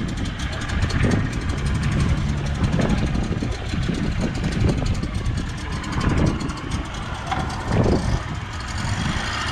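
Low, uneven rumble of strong gusty wind on the microphone, mixed with the Leopard 45 catamaran's engines running as it manoeuvres.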